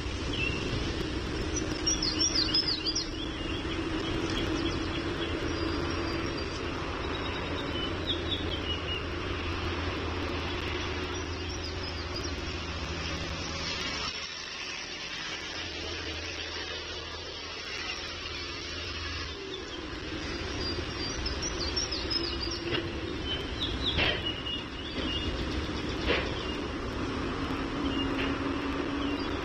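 Outdoor ambience: a steady low rumble and hum, with short high bird chirps now and then, about two seconds in, around eight seconds, and twice past twenty seconds.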